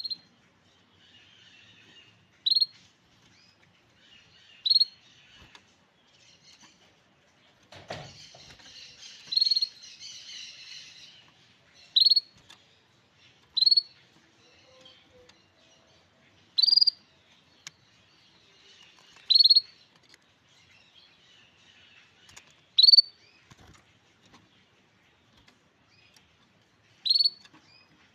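Grey canary giving short rising call notes, repeated about every two to three seconds, with soft twittering between them. A thump and a few seconds of rustling come about a third of the way through.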